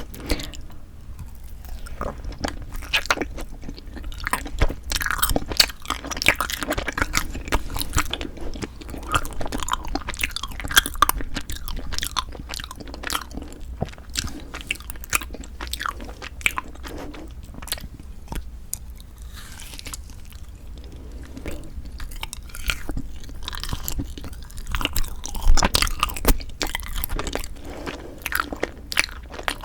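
Close-miked ASMR eating sounds: chewing and biting Kiri cream cheese and chapssaltteok ice (rice-cake-wrapped ice cream), a dense run of small mouth clicks with louder bites now and then, the loudest a little before the end.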